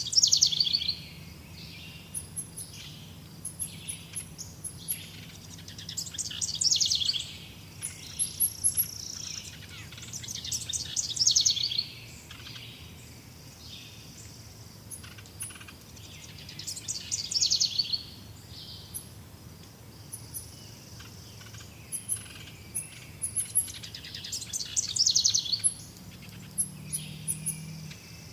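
Birdsong: a bird repeats a fast trilled song about every five or six seconds, with faint high chirps in between, over a low steady hum.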